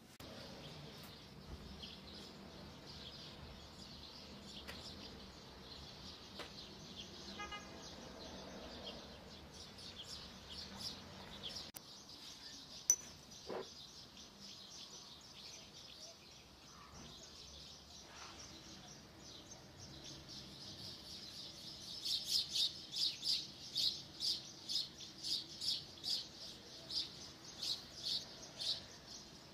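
A small bird chirping, faint and scattered at first, then in loud, regular chirps about twice a second near the end.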